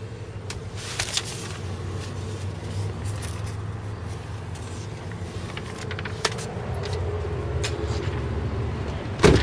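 Steady low hum of the pickup truck's engine running, with a few light clicks and a loud knock near the end.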